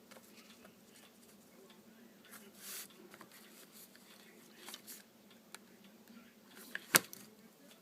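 Faint rustling and soft ticks of paper embellishments being handled and glued onto a card, with one sharp click about seven seconds in.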